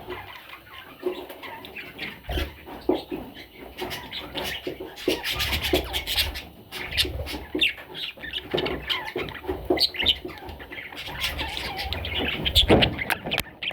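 Budgerigar chicks chirping and squawking in quick, irregular calls, mixed with scratching and rustling and a few low bumps.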